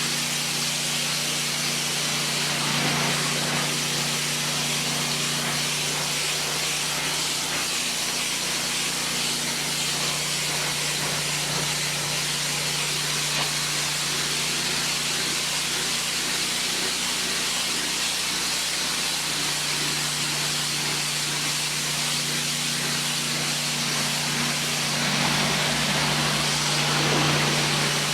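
Honda-engined 8 gpm pressure washer running: a steady hiss of high-pressure water spray over the even hum of its gas engine.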